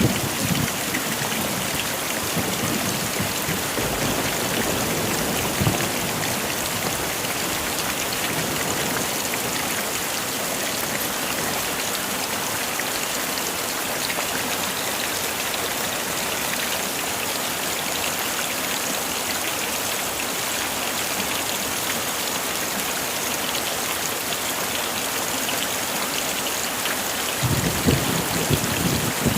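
Heavy rain falling steadily in an even hiss. Near the end a low rumble of thunder starts to build.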